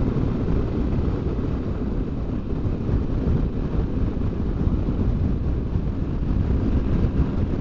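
Steady low rumble of wind rush and engine noise on a moving BMW R1200GS Adventure motorcycle, with wind buffeting the rider's microphone.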